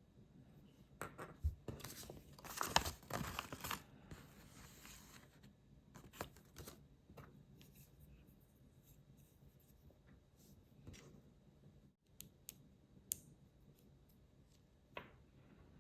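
Thin plastic packaging torn open and rustled for a few seconds, followed by scattered sharp clicks of small plastic building bricks being handled.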